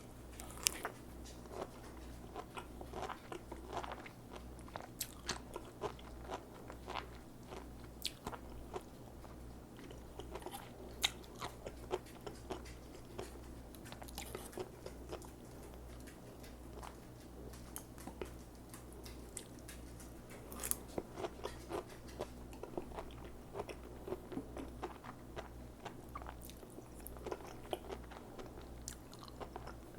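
Close-up chewing of sea grapes: crisp, irregular crunching and small pops as the seaweed beads burst in the mouth, over a low steady hum.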